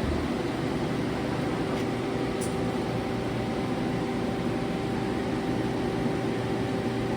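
Leadwell LTC-20BM CNC turning center running under power: a steady machine hum with a constant motor whine.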